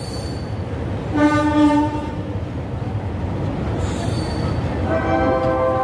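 Train horn sounding twice over the steady low rumble of a passenger coach rolling slowly into a station platform: a blast of about a second starting about a second in, and another starting near the end.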